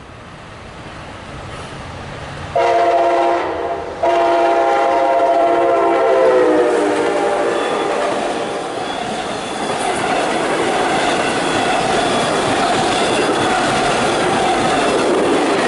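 MARC commuter train approaching and passing: the locomotive horn sounds a short blast, then a longer one whose pitch drops as it goes by. The horn gives way to the steady rumble and clatter of the cars rolling past.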